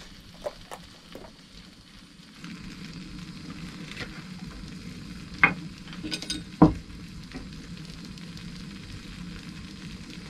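Tagliatelle and grated cheese sizzling in a Trangia pan over the burner as the cheese melts in. The sizzle becomes steady a couple of seconds in, with a few sharp knocks about halfway through.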